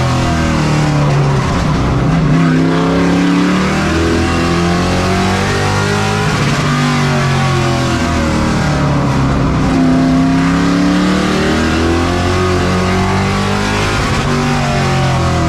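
Pro Truck race engines running hard in a pack on a short oval, more than one heard at once. Their pitch climbs under acceleration and drops as they lift off for the turns.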